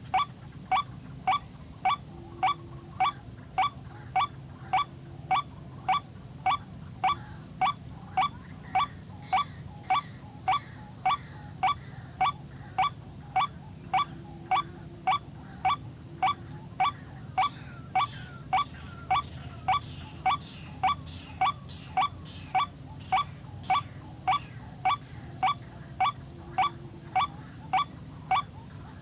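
White-breasted waterhen (ruak-ruak) call, a short rising note repeated in a perfectly even rhythm about twice a second, as played from a recording to lure birds to a snare.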